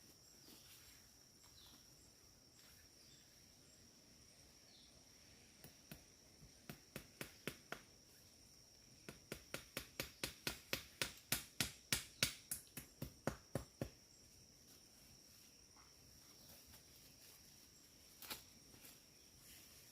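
Steady high-pitched chirring of crickets or similar forest insects. Over it comes a run of sharp, regular knocks, about three a second, loudest midway, with one more knock near the end.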